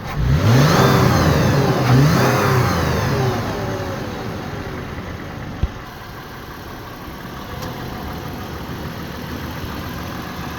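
Toyota 4Runner engine starting: it catches, flares up in revs and settles back down over the first few seconds, then idles steadily.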